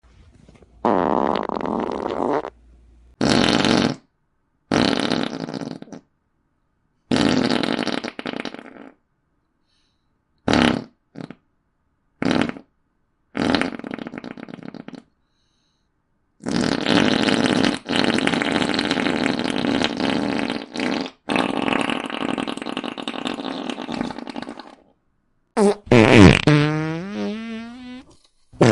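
A run of about a dozen comedic fart sound effects, one after another with short gaps. They range from brief pops to two long drawn-out rasps of several seconds. Near the end comes a squeaky fart whose pitch slides and wobbles up and down.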